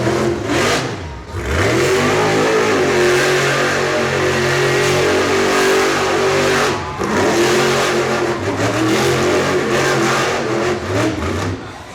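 Stone Crusher monster truck's engine revving hard while spinning donuts. The revs climb and are held high for several seconds, drop briefly about a second in and again near seven seconds, then climb once more.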